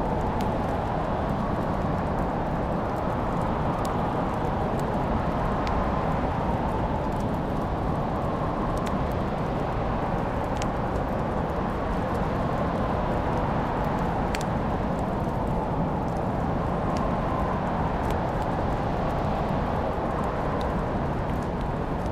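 Wood fire crackling, with scattered sharp pops every second or two over a steady rumbling hiss. Behind it, a soft whistling tone slowly rises and falls in pitch.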